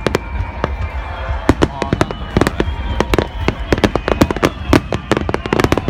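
Fireworks going off in rapid succession, a dense string of sharp bangs and crackles many times a second, with music playing underneath.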